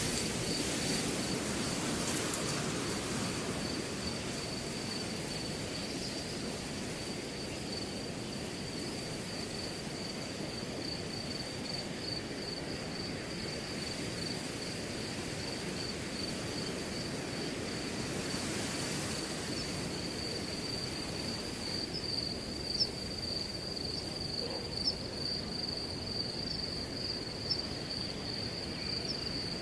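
Wind rustling through a grass field, swelling in gusts at the start and again about two-thirds of the way through, over a steady high-pitched, pulsing cricket trill. A few sharp ticks sound in the last third.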